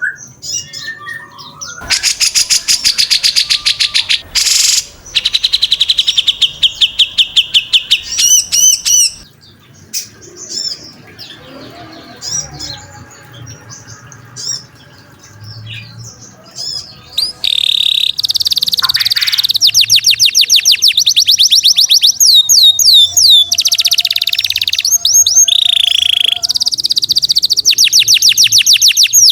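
Cage songbird song recorded for training other birds: loud, fast rattling trills of rapidly repeated high notes mixed with looping whistled phrases, easing to softer calls for several seconds in the middle before the rapid trills return.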